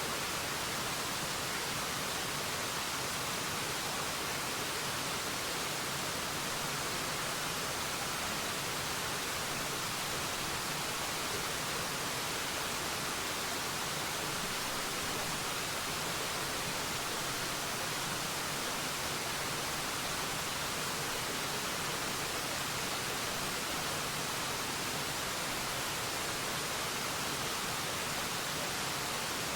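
Waterfall: a steady, unbroken rush of falling water, an even hiss with no changes.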